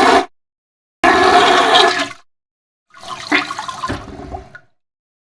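Rushing, water-like noise in hard-cut pieces: a burst that stops just after the start, another of about a second, and a quieter one near the middle, each beginning and ending abruptly with dead silence between them.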